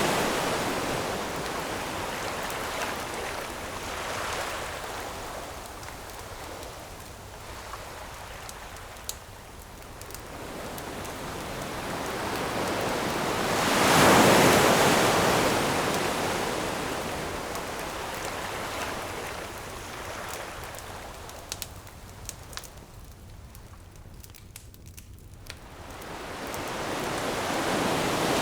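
Ocean waves surging and washing ashore, one large wave breaking about halfway through and another building near the end, with the sharp crackles and pops of a wood campfire in the quieter stretches between them.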